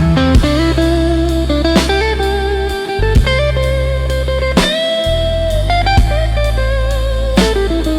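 Instrumental break in a slow AI-generated blues song: electric guitar playing sustained, bent lead notes over held bass notes and drums, with a drum hit about every second and a half.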